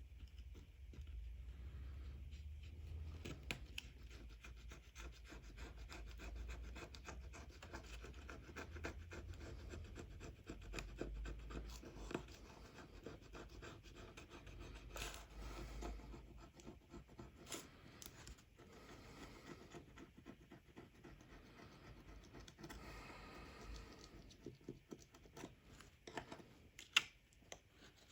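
Razor blade scraping leftover polarizer adhesive off LCD glass in continuous quick, light strokes, with one sharper click near the end.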